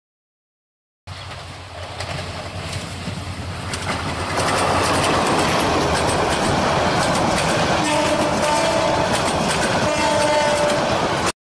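Bangladesh Railway intercity passenger train running past, its wheels clattering over the rail joints, growing louder over the first few seconds. The train horn sounds twice near the end.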